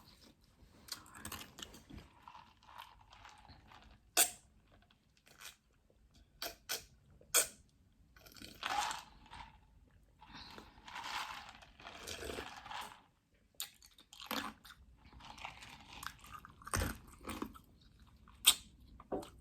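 Close-up chewing of Doritos nacho chips loaded with toppings: sharp crunches scattered between stretches of wet chewing.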